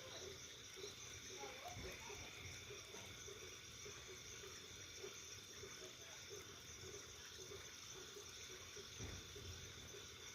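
Faint, steady chirring of insects, with a soft low call pulsing two or three times a second beneath it.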